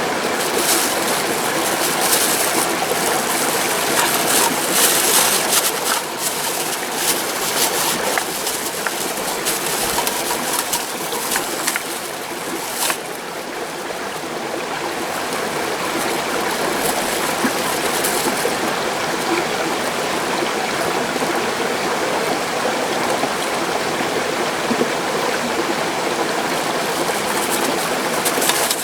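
Mountain stream rushing steadily, with a few scattered sharp clicks in the first half.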